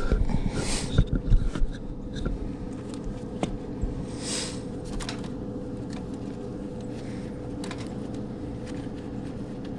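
Hands handling wires and plastic zip ties, with scattered clicks and rustles in the first two seconds and one short hissing sweep about four seconds in, over a steady low hum.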